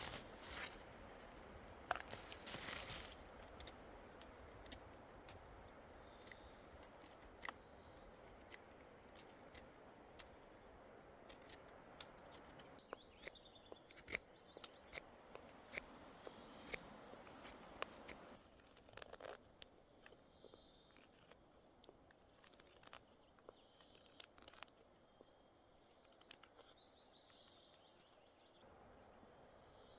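Irregular sharp clicks and crackles over a faint rustling, thinning out a little past halfway, where faint bird chirps come through.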